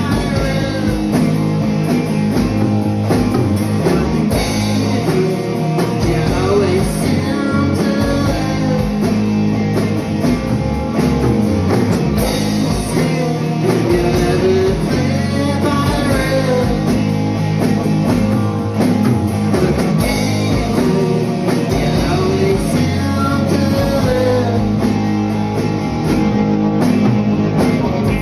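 A small rock band playing a song: a voice singing over guitar and a drum kit.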